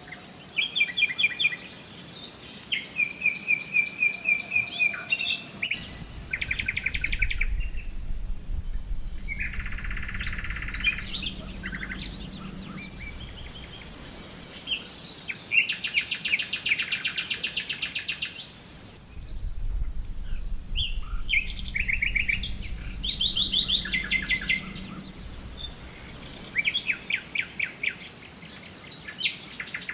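Several songbirds singing and calling together: fast trills and quick runs of repeated chirps, overlapping throughout. A low rumble with a faint steady hum sits underneath twice, for several seconds each time.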